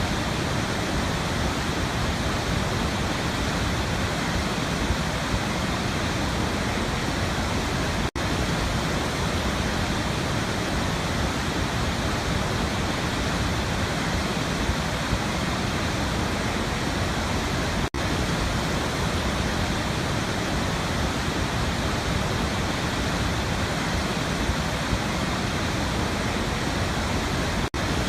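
Waterfall: a steady, even rush of falling water. It drops out for an instant three times, about ten seconds apart.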